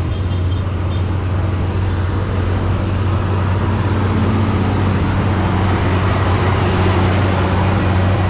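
Steady wind and road noise on the camera microphone while cycling, a low rumble under a rushing hiss that grows slightly louder.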